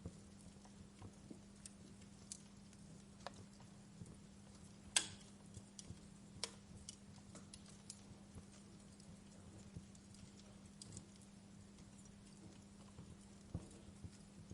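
Wood fire crackling in a fireplace: sparse, irregular sharp pops and snaps, the loudest about five seconds in, over a faint steady low hum.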